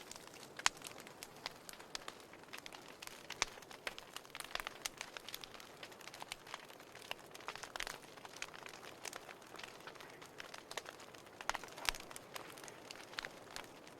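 Wood fire crackling: a steady soft hiss with many irregular sharp pops and snaps of burning firewood, a few of them louder.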